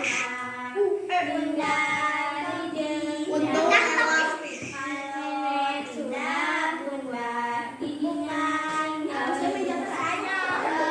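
A child singing an Indonesian children's song in a clear, high voice, holding notes of about a second each with no instruments heard.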